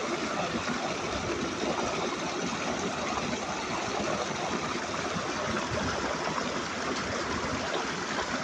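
River water rushing steadily, an even, unbroken rush.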